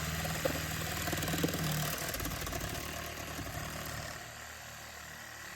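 A power cutting tool running steadily as it cuts through a cured-in-place pipe liner, with a steady high whine. It grows gradually quieter toward the end.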